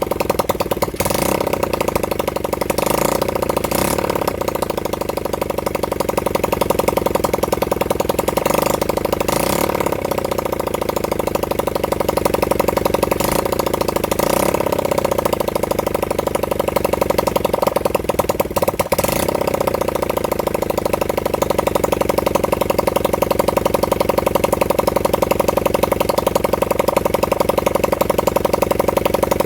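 Honda CB100N's single-cylinder four-stroke engine running on its first start in over 20 years, idling steadily with a few brief louder flare-ups in the first twenty seconds. It runs rough ("somewhat chronic, but it's a runner").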